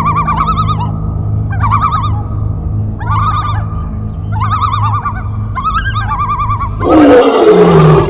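A bird calling over and over, each call a quick warbling trill repeated about once a second, over a steady low hum. Near the end a loud, rough burst of noise cuts in.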